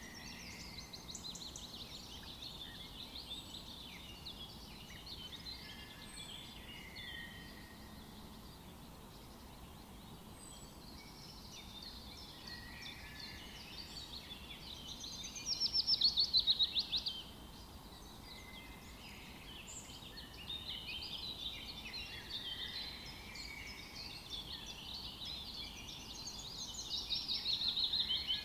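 Several songbirds singing at once in a chorus of overlapping calls and whistles. A loud, fast trill of repeated notes rises out of it about halfway through and again near the end.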